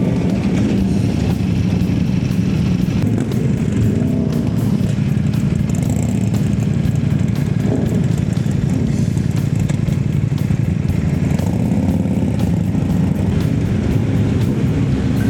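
Honda CB1100's air-cooled inline-four engine running steadily while riding, at an even, loud level.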